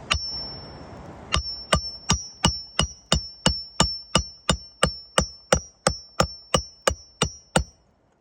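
Hand hammer driving a roofing nail at an angle into a shingle roof: one blow, a pause of about a second, then a long even run of about eighteen blows, roughly three a second, each with a bright metallic ring.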